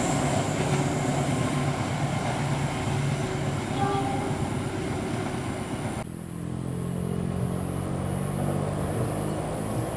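Passenger train running on the rails with a dense rumble; about six seconds in the sound changes abruptly to a steadier, lower hum.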